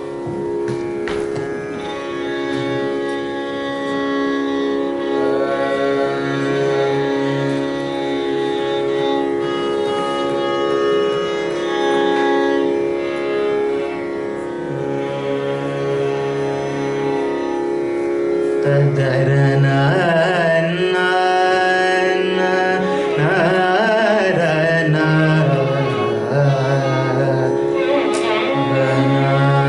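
Carnatic singing in raga Kalyana Vasantam over a steady tanpura drone: long held low notes at first, then a male voice with heavily ornamented, wavering notes, louder from about two-thirds of the way in.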